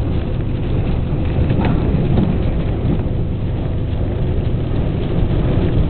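Hurricane storm wind and rain: a loud, steady rushing noise, heaviest in the low end, as the wind buffets the microphone.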